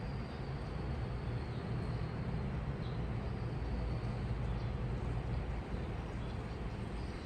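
Washing machine running, a steady low hum under an even wash of noise, with a faint high whine in the first couple of seconds.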